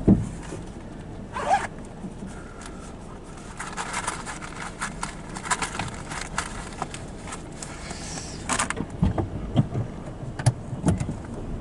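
Dollar bills and a wallet being handled inside a parked car. Paper rustles, and short scraping and clicking strokes like a zipper come thickest in the second half.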